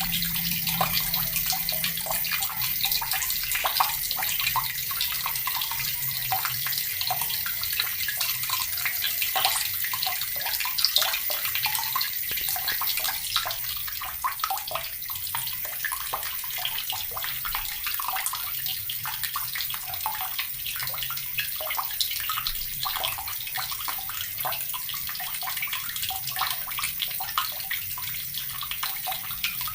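Water running steadily from a tap, splashing continuously without a break.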